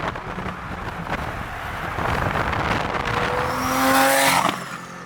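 Car engine accelerating hard over a steady rush of road and wind noise, building to a loud, slightly rising note with a high whine about three and a half seconds in, then cutting off abruptly about a second later.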